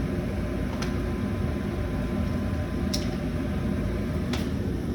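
Steady low hum of running HVAC equipment, with three light clicks or taps.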